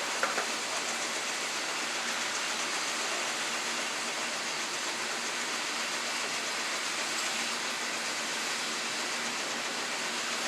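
Steady rushing of peanut-drying blowers forcing hot air through the trailers, an even hiss that does not change.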